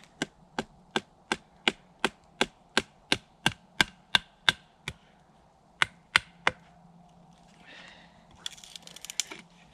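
A wooden stake being chopped to a point: a quick, regular series of sharp wooden knocks, about three a second, then a few more after a short pause, with softer rustling of wood and debris near the end.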